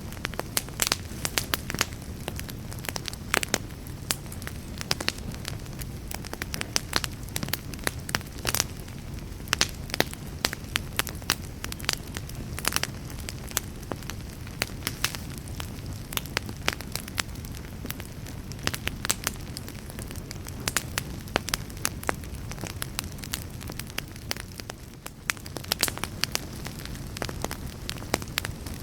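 Wood fire burning in a fireplace: a steady low rumble of flames with frequent sharp crackles and pops at irregular moments. The sound dips briefly a little before the end.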